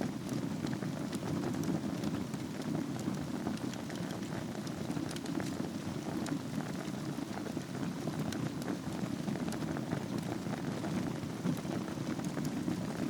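Wood fire burning in a fireplace over embers: a steady low rush with many small crackles and pops scattered throughout.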